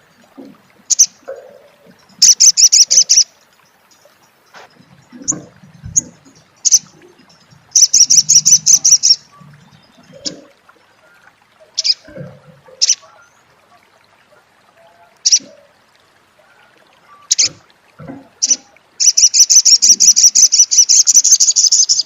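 Olive-backed sunbird giving its 'crecet' call: short, high, rapid chattering trills lasting about a second each, with single sharp chips in between. A longer trill of about three seconds comes near the end.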